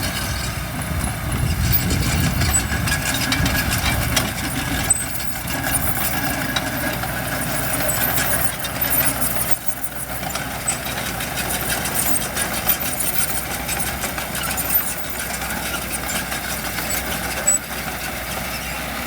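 Diesel engine of heavy earthmoving equipment running steadily, louder and deeper for the first few seconds, with a few short knocks along the way.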